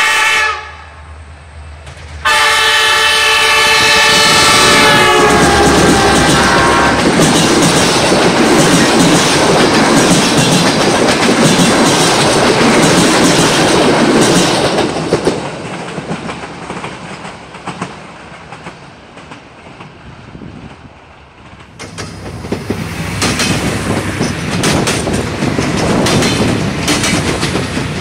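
A passenger train's horn gives a short toot, then a long multi-note blast that drops in pitch as the locomotive passes. The train then rushes by with wheels clattering over the rail joints and fades away. About 22 s in, a Siemens Desiro diesel multiple unit rolls past with quick, sharp wheel clatter.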